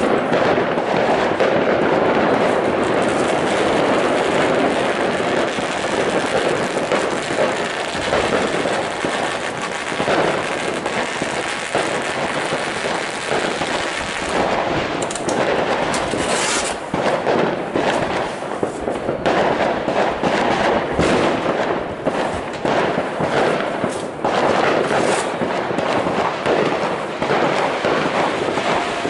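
Many fireworks and firecrackers going off together: a continuous crackling din full of sharp bangs, with more distinct bangs standing out in the second half.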